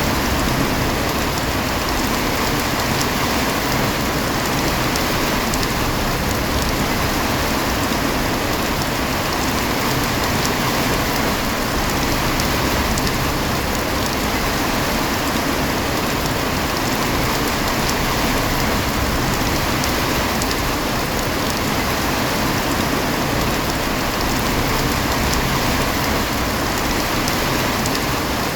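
Heavy rain falling steadily: a dense, even hiss with no let-up, speckled with the patter of individual drops.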